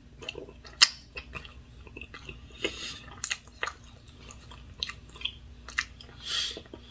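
A person chewing a mouthful of syrupy pancake with mouth closed, close to the microphone: scattered wet mouth clicks and smacks, the sharpest a little under a second in, and two longer hissy breaths about three and six and a half seconds in.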